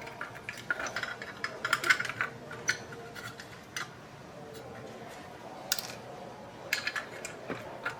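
Scattered light clicks and taps of small hard parts being handled during a toy repair, irregular, a few clustered around the first two seconds and again near the end.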